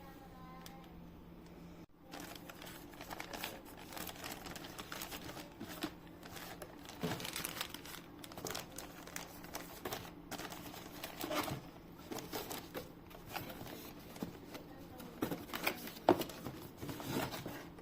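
Crinkly material being handled: irregular crinkling and rustling with scattered light taps and clicks, one sharper click about 16 seconds in.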